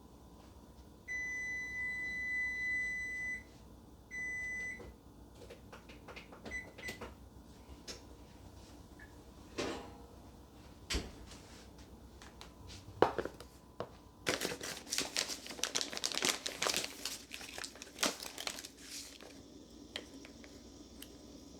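An electronic kitchen-appliance beep: one long steady tone of about two seconds, then a shorter one. It is followed by scattered clicks and knocks, and near the end a few seconds of rapid clattering and rustling from hands at work.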